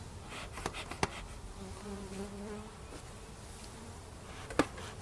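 Honey bees buzzing around an opened hive, with one bee droning close by for about a second, about two seconds in. A few sharp clicks cut through, the loudest near the end.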